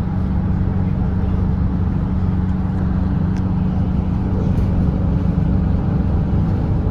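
Volvo B8RLE double-decker diesel bus engine running at a steady speed on the highway: an even, low drone with road noise and no change in pitch.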